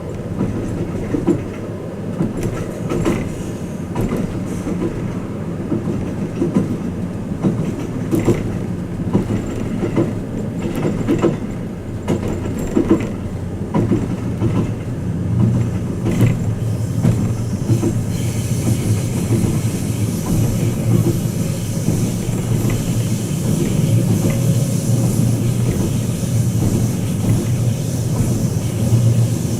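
Running noise inside a carriage of the Twilight Express Mizukaze train on the move: a steady low rumble with irregular clicks of the wheels over the rails. About two-thirds of the way in a higher hiss joins and the low drone grows louder.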